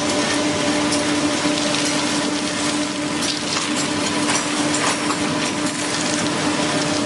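Train running along the track, heard from the cab: a steady hum under a constant hiss, with scattered faint crackles.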